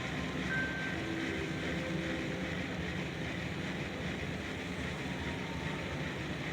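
Steady outdoor ambience of wind and water, with a few faint short tones in the first half.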